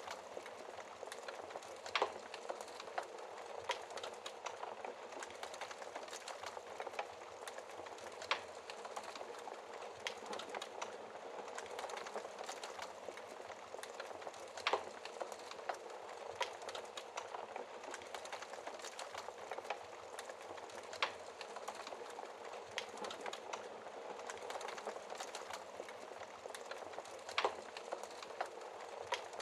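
Wood fire burning in a fireplace: a steady fine crackle with sharp pops every few seconds, the loudest about two, eight, fifteen, twenty-one and twenty-seven seconds in.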